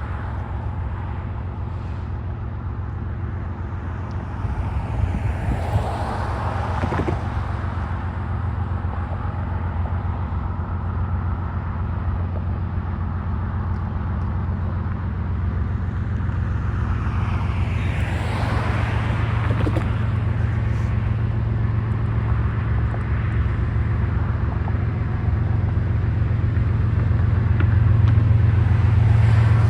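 GE diesel freight locomotives running with a steady low drone that grows slowly louder as they approach. Road vehicles pass by about six seconds in and again about eighteen seconds in.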